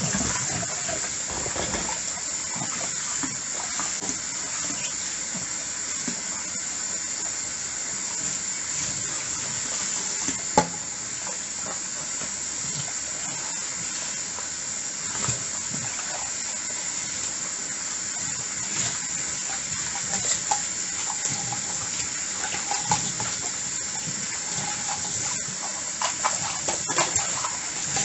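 Tap water running steadily into a sink while dishes are washed, with scattered light clinks of crockery and one sharper clink about ten seconds in.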